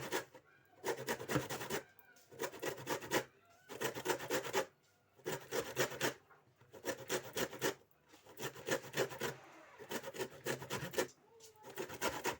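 Lemon peel being grated on a hand grater: quick rasping strokes in bursts of about a second, with short pauses between, taking off only the outer zest.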